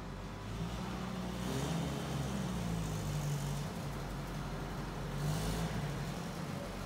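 Willys MB jeep's four-cylinder flathead engine running steadily, its pitch drifting slightly up and down.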